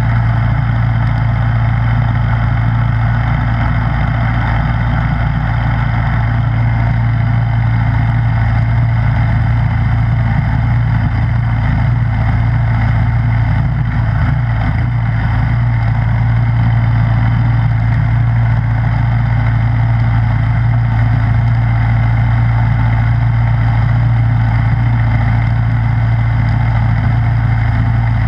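Snowblower engine running at a steady speed, a constant low hum with no change in pitch or load.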